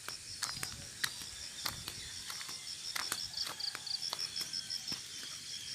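Insects, likely crickets, chirping in a steady high pulsing trill of about five or six beats a second, with scattered light clicks and knocks over it.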